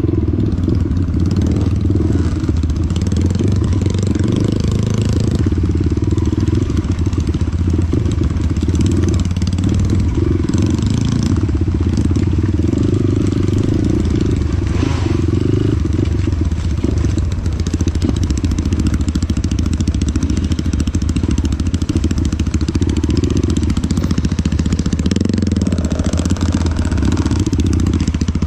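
Dirt bike engine running continuously.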